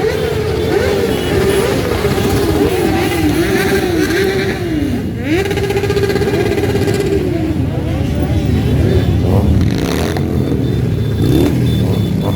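A stream of motorcycles riding past, many engines revving up and down over one another, with one engine note held steady for about two seconds midway.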